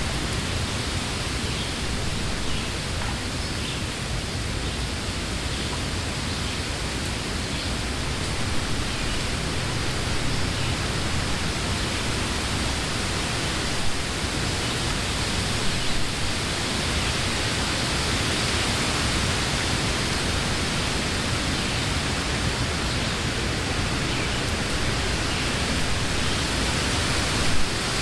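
Summer wind blowing through trees, a steady rush of moving leaves and branches that swells slightly after the first third, with a few brief louder puffs.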